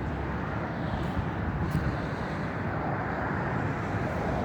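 Jet airliner engines making a steady rumble across the airfield.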